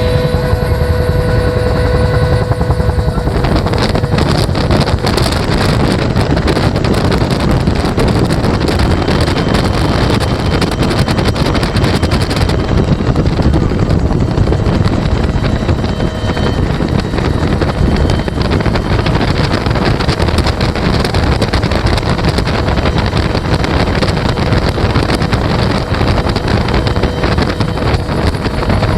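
Bell UH-1 Huey helicopter with a two-bladed main rotor in flight, heard from the open gunner's seat: a continuous rotor and turbine din with heavy wind buffeting the microphone. A steady whine stands out for the first few seconds, then sinks into the wind noise.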